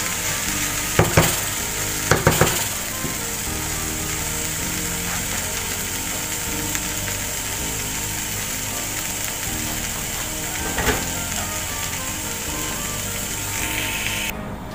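Rice and chopped coriander frying in pans with a steady sizzle. A spoon clicks against the pan a few times in the first few seconds and once more near the end.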